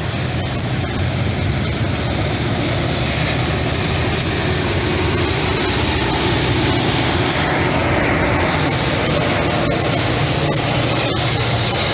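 Caltrain commuter train passing at steady speed: its F40PH-2CAT diesel locomotive's engine hums steadily beneath continuous wheel-on-rail noise.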